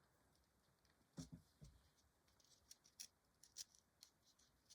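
Faint, scattered scraping clicks of a pencil being turned in a small pencil sharpener, with a soft knock about a second in.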